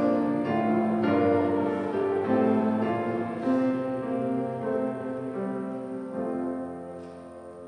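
Keyboard instrument playing slow held chords that change every second or so, slowly dying away toward the end.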